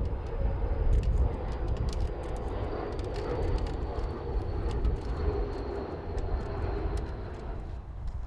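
Jet airliner passing low on its landing approach: a steady engine rumble with a thin high whine that slowly drops in pitch. A run of sharp clicks sits over it for the first few seconds.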